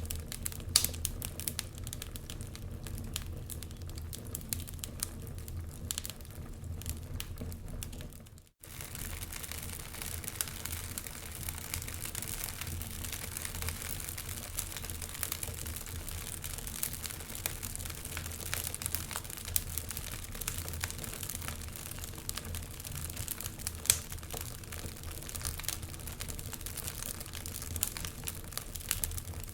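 Log fire burning, with irregular crackles and pops from the wood over a low steady rumble. The sound briefly cuts out about eight seconds in, then carries on.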